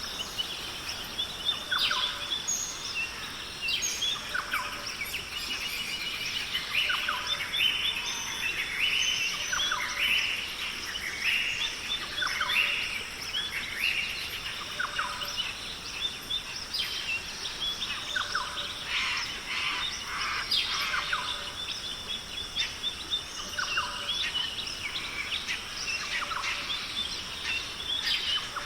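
Many birds calling at once, a dense chorus of short overlapping chirps and calls that goes on throughout.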